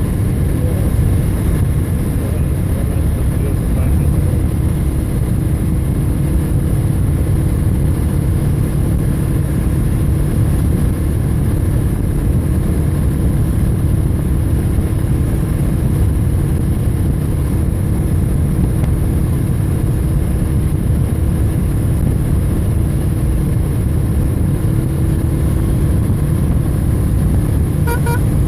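Motorcycle riding at a steady cruise: heavy wind rumble on the microphone over a steady engine hum.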